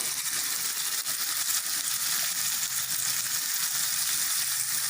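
Chopped onions, tomatoes, capsicum and chilies frying in hot oil in a pan: a steady sizzle with fine crackling.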